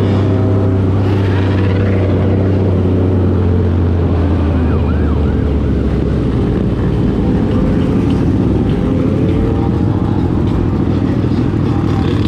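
Motorcycle engines running loudly together, with a short wavering siren-like sound about four to five seconds in.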